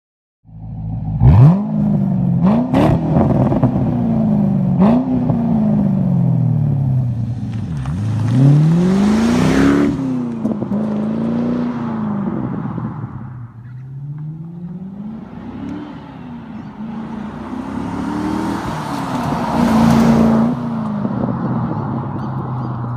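V8 of a Holden VZ Clubsport through a twin 2½-inch Xforce exhaust, starting up about a second in, then revved in a series of blips that rise and fall, with a longer held rev near the end before dropping back to idle.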